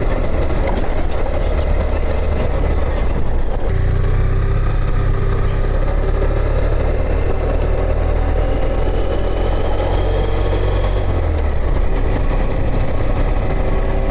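Motorcycle engine running under way, with road and wind noise. About three and a half seconds in the engine note breaks, as at a gear change, and then climbs slowly as the bike pulls away.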